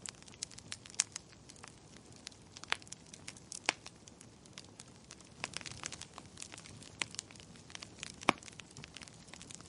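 Fireplace fire crackling: irregular snaps and pops over a soft hiss, with sharper pops about a second in and again near the end.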